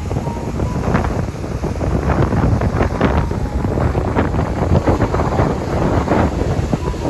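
Sea waves and strong wind, with gusts buffeting the microphone in a dense, low rumble. Short bursts of splashing or gusting come every fraction of a second.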